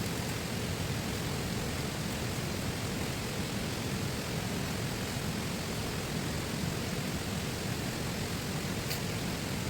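A river flowing, a steady rush of water with no change in level. One faint click sounds near the end.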